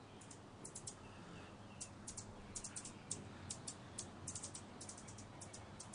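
Hummingbirds giving rapid, high-pitched chip calls in irregular clusters of short ticks: the chatter of birds fighting over a feeder.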